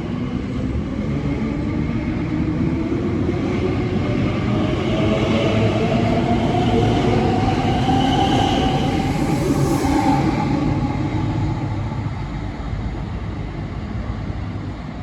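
Elizabeth line Class 345 electric train pulling away, its traction motors whining and rising in pitch as it picks up speed over a rumble of wheels on rail. It grows loudest around the middle, then fades.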